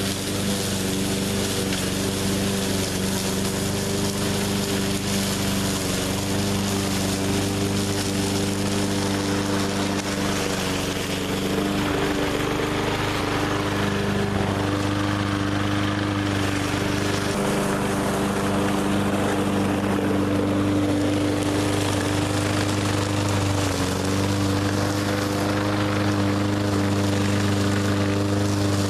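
Small engine of a 20-inch walk-behind push mower running steadily at speed, its tone shifting a few times.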